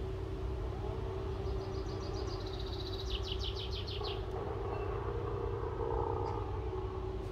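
A small songbird sings a rapid trill of evenly repeated high notes for about two and a half seconds, starting about a second and a half in. Underneath there is a steady low rumble with a faint hum.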